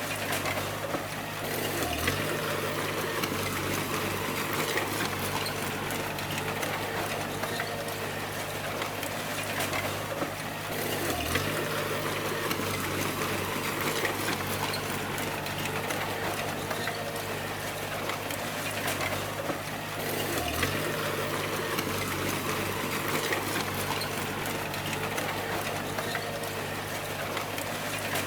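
Bulldozer engine running steadily with clattering from the machine, its pitch dipping briefly about every nine seconds as the dozer takes a load or changes direction.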